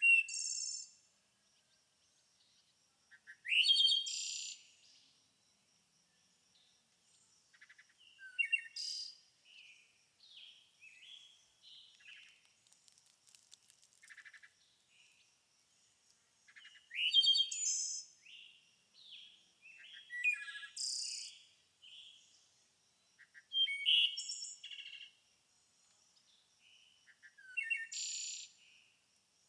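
Songbirds singing: loud phrases of chirps and trills every few seconds, with softer chirps in between.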